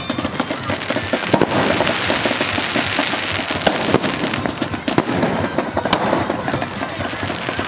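Aerial fireworks bursting close overhead: a dense, continuous run of crackling with many sharp bangs throughout.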